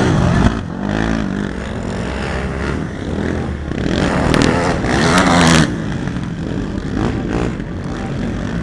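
Racing ATV (quad) engines revving up and down as the machines run the track, several at once, loudest about five seconds in as they pass close by.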